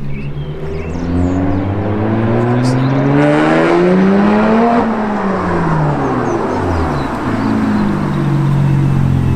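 Straight-piped BMW 135i's N54 twin-turbo straight-six accelerating, its exhaust note rising steadily for about four seconds, then falling over the next two as it comes off the throttle, and settling to a steady lower drone.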